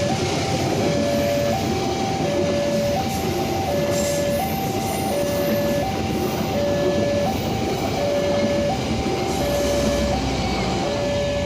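Railroad level-crossing alarm sounding a steady two-tone alternating chime, each tone held for under a second, as the Fajar Utama Solo passenger train runs past with a continuous loud rumble of wheels on rails.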